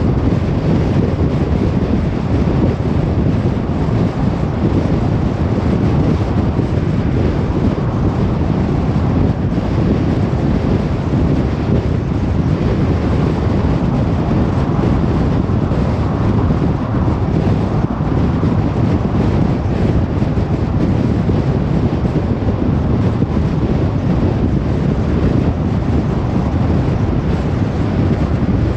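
Steady road noise of a moving car: a low, even rumble of tyres and wind that does not change.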